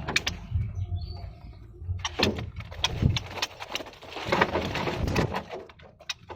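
Several caged Pekin robins chirping, among many sharp clicks, with a burst of rustling noise about four seconds in and a steady low rumble underneath.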